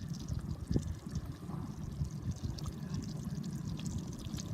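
Beef stew simmering in a stainless steel stock pot over a campfire: a steady, irregular bubbling of many small pops.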